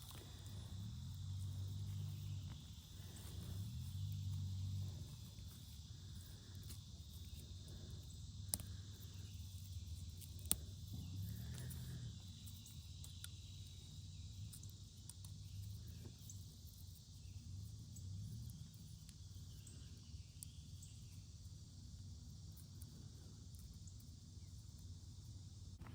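Cicadas droning steadily in a high, even buzz. Low rumbles come and go, and two sharp clicks sound partway through.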